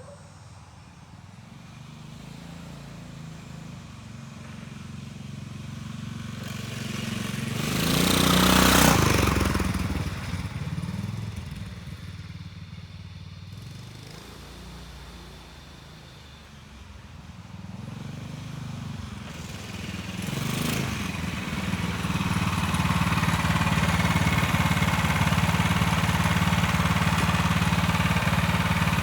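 Predator 301cc single-cylinder engine on a dirt bike running. It is revved up sharply about eight seconds in and again more briefly around twenty seconds, then runs louder and steady for the rest.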